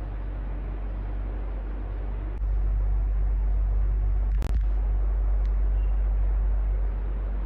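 Electric fan running steadily: an even rush of air over a low motor hum. The hum steps up in loudness about two and a half seconds in, and there is a single brief click about four and a half seconds in.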